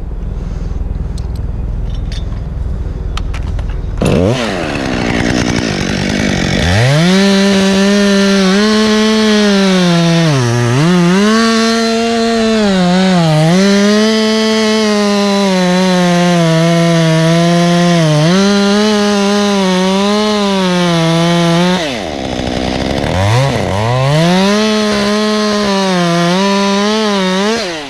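Chainsaw revving up about four seconds in and cutting through oak, its engine note dipping again and again as the chain bites into the wood. It falls away shortly before the end, then revs and cuts again.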